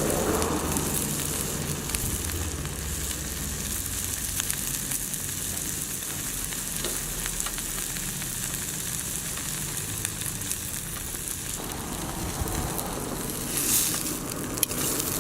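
Food frying in a skillet: steady sizzling with fine crackles throughout, and a brief louder flare of sizzle near the end.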